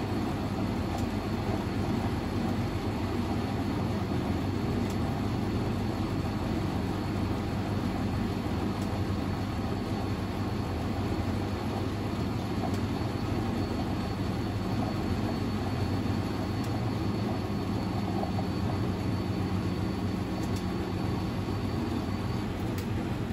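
Privileg 3001 S washing machine, built by Zanussi with a three-speed gear motor, running with a steady rumble and a thin, high steady whine that stops near the end.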